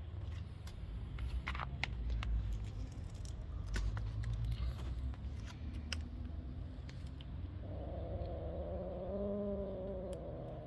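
Scattered light clicks and rustling, then about three seconds before the end a kitten gives one drawn-out, wavering cry.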